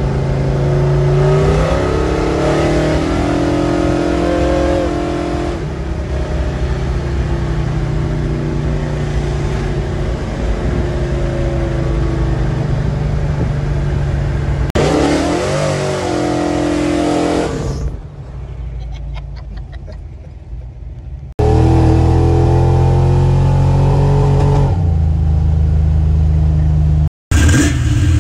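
A car engine accelerating and cruising, heard from inside the cabin, its pitch climbing on each pull. The sound changes abruptly a few times, with a quieter stretch a little past the middle and a brief dropout near the end.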